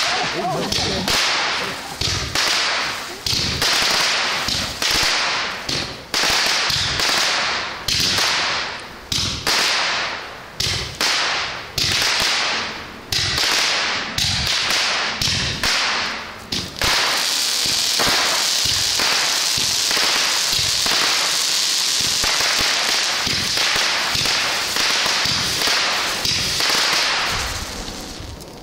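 Consumer firework barrage firing in rapid succession, about two to three sharp cracks a second, each trailing off in a hiss. It then runs into a steady dense hiss for about ten seconds before fading near the end.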